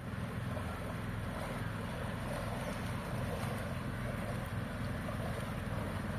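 Houseboat engine running steadily, a low even chug with rushing wind and water noise over it.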